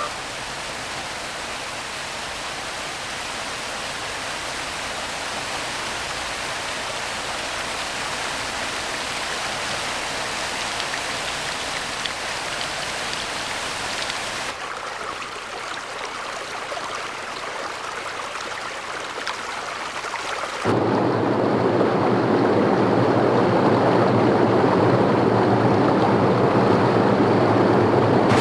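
Rushing mountain stream water, a steady hiss that changes abruptly twice. About 21 seconds in it becomes louder and deeper, like a larger torrent or cascade.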